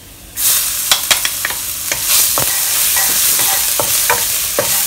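Chopped garlic hitting hot oil in a non-stick wok and sizzling, the hiss starting suddenly about half a second in, with a wooden spatula scraping and tapping against the pan as the garlic and ginger are stirred.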